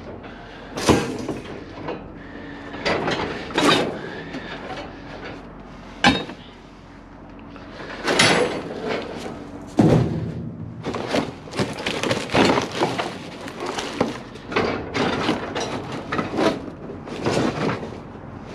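Scrap metal pieces clanking and banging together as they are handled and stacked in a dumpster: a series of sharp metallic knocks and clatters, some ringing briefly, coming thicker and faster in the second half.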